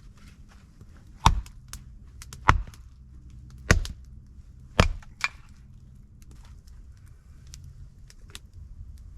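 Chopping wood: four hard strikes about a second apart, then a lighter knock.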